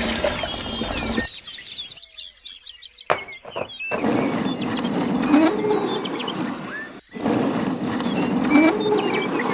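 Outdoor animal sounds: many short bird chirps over a steady background noise, with a lower animal call that rises and falls twice. The sound breaks off abruptly several times.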